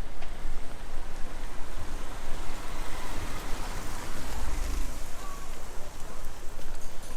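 Steady rain falling on a paved street, an even patter of drops, with a low rumble swelling about four seconds in and fading again.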